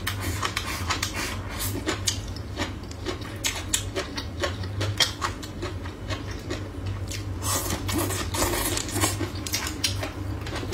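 Close-miked eating sounds: chewing of crisp stir-fried bamboo shoots and pork, a run of irregular short crunches and mouth clicks, over a steady low hum.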